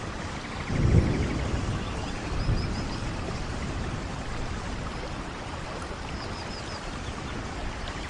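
Steady rain falling in a forest, an even hiss of drops, with a low thump about a second in. Two faint groups of three short high chirps sound over the rain.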